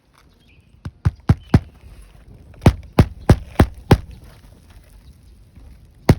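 Hammer blows driving roofing nails through asphalt shingles: three quick strikes about a second in, five more around three seconds in, and a single strike near the end.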